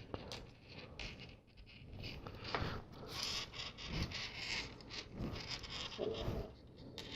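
LEGO plastic pieces being handled and pressed onto a build: scattered light clicks, scrapes and rustles of small parts.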